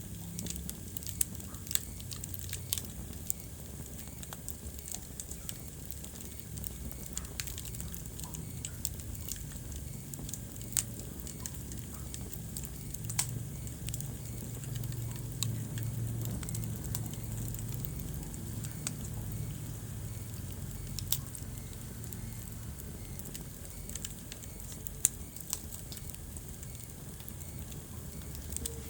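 Wood fire burning in a fireplace: irregular sharp crackles and pops from the burning logs over a steady low rumble of the flames, with one louder pop near the end.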